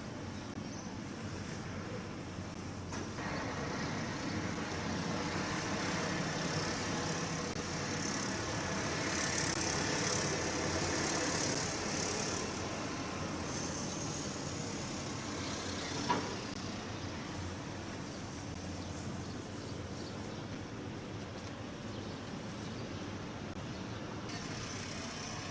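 Steady motor-vehicle noise, like road traffic, swelling a little in the middle, with one sharp knock about two-thirds of the way through.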